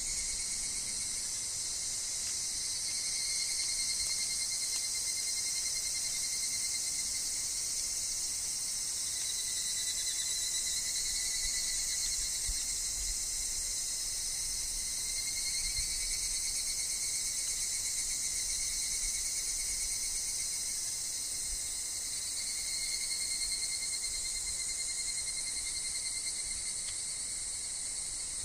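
Steady chorus of insects, with higurashi evening cicadas singing: a dense, high shrill drone with fainter, gently wavering tones beneath it.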